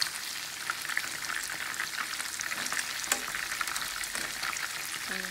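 Flour-battered chicken pieces deep-frying in hot oil, a dense steady crackle and sizzle as the batter nears crispness. A single sharper click about three seconds in.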